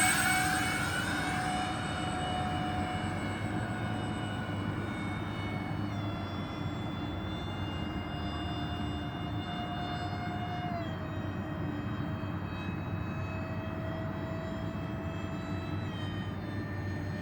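Electric ducted fans of a radio-controlled model airliner whining in flight, fading in the first couple of seconds as the model moves away. The whine then holds steady and drops in pitch in steps about three times as the throttle is eased back.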